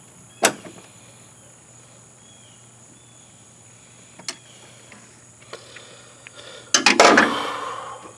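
Hand work on parts or tools: one sharp click about half a second in, a few light ticks, then a louder rattling clatter near the end that dies away. Faint bird chirps and a steady high insect drone sit underneath.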